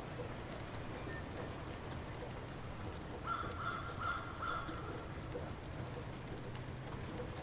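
Light rain falling steadily. About three seconds in, a bird calls in a quick run of several notes lasting about a second and a half.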